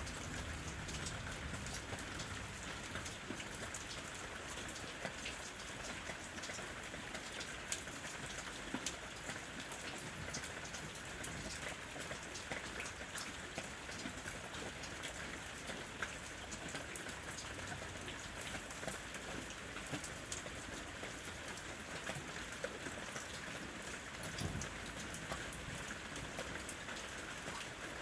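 Steady rain falling on a house roof: an even hiss of rainfall with many single drops heard as sharp ticks.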